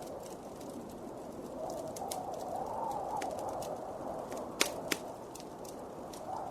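Wood fire crackling with scattered sharp pops, two louder snaps a little past the middle, over a blizzard wind that swells up and rises in pitch in the middle before easing.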